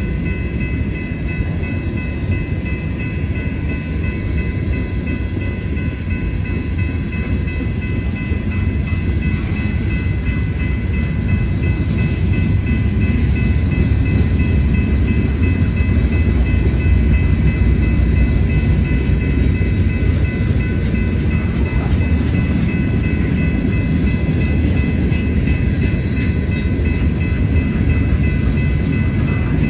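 A train rolling past: a continuous, loud rumble of wheels on rail that swells a little midway, with a faint steady high-pitched ring over it.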